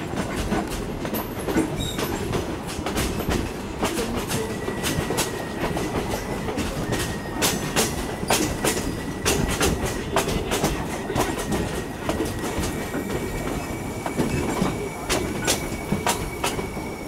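Rolling train heard from an open excursion car: a steady rumble with the irregular clickety-clack of wheels passing over rail joints. A faint, thin wheel squeal runs through the middle and later part.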